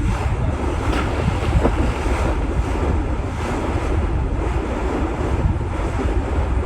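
Wind buffeting the microphone over the steady rush of sea water around a sailing boat under way.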